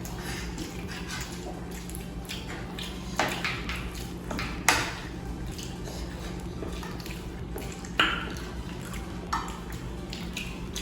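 Dishes and cutlery clinking now and then as people eat, with a few sharp clinks, the loudest a little under halfway through, over a steady low hum.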